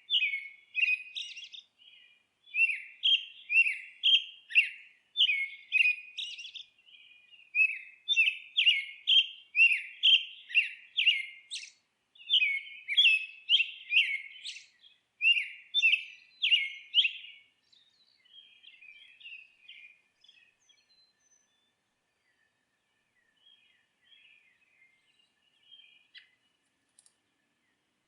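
Songbird chirping and twittering in quick, repeated short phrases, dense and fairly loud, then thinning out after about 17 seconds to a few faint, scattered chirps.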